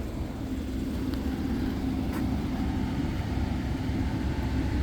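A steady low mechanical rumble with a faint constant hum, and one faint click about two seconds in.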